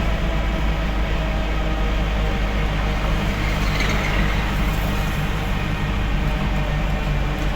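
Delivery truck's engine running steadily with road noise while driving, a constant low rumble; a brief hiss rises and fades about four seconds in.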